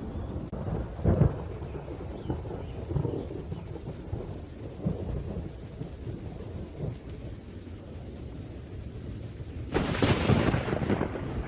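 Thunderstorm: rolling thunder rumbling over steady rain, with a short loud jolt about a second in and a louder, sharper thunderclap near the end.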